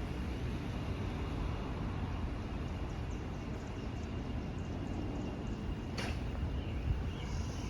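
Steady low rumble and hiss of outdoor street ambience, with one sharp click about six seconds in.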